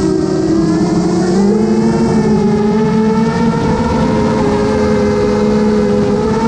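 FPV quadcopter's motors and propellers whining in flight, several steady tones that drift slowly up and down in pitch as the throttle changes.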